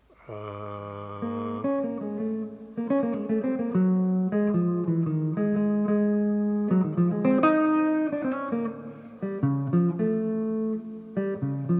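Guitar playing bebop chords and single-note melody lines, each note plucked and left to ring.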